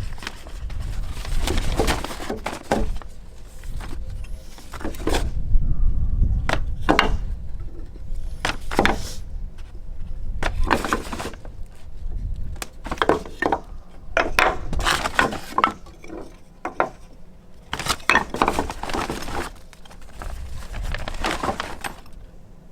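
Knife blade shaving a wooden stick in repeated strokes, each a short scrape, as curls are carved for a feather stick.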